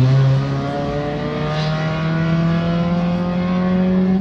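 Car engine held at raised revs, its pitch climbing slowly and steadily.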